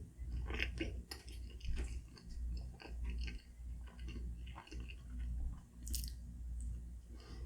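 Close-miked chewing of a barbecue pork bun: wet, irregular mouth sounds and small clicks, with one sharp click about six seconds in.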